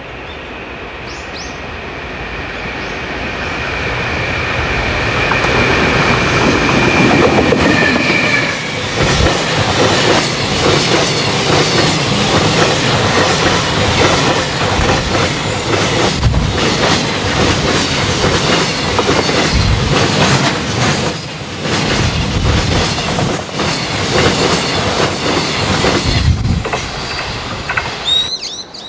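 Electric freight locomotive and a long train of container wagons passing close by. A steady high whine sounds for the first several seconds as the train approaches and grows louder. It gives way to the heavy rumble of the wagons and a repeated clickety-clack of wheels over the rail joints, which cuts off suddenly near the end.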